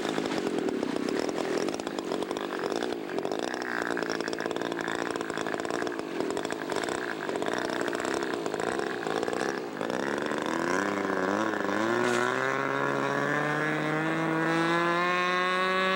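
Radio-controlled model airplane's small engine running at high revs with a rough, buzzing note. From about ten seconds in its pitch climbs steadily and evenly.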